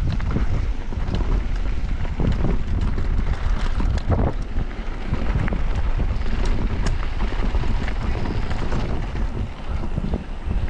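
Wind buffeting a mountain biker's camera microphone at downhill speed, over a steady low rumble of tyres on a dirt trail, with scattered clicks and clatters from bumps.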